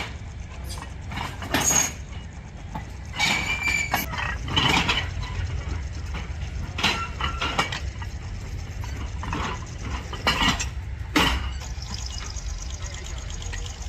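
Irregular metal clanks and knocks, some ringing briefly, over a steady low machine hum, typical of heavy track-chain parts being handled and struck.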